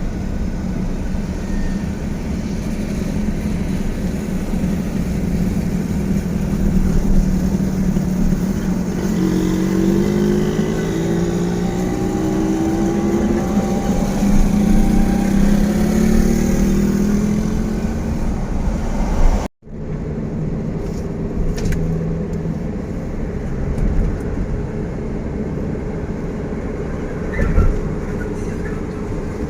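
Road traffic: vehicle engines running steadily, with an engine rising in pitch as it accelerates through the middle. The sound cuts out abruptly for an instant about two-thirds of the way in, then the traffic noise resumes.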